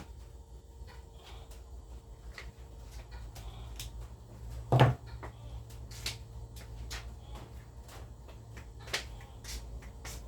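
Household objects being handled: a run of light clicks and knocks, with one much louder knock about halfway through and a smaller one near the end.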